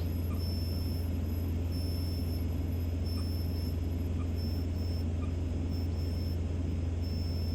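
Cessna 172's engine and propeller in steady cruise, a constant low drone. A faint high-pitched tone pulses on and off about once a second over it.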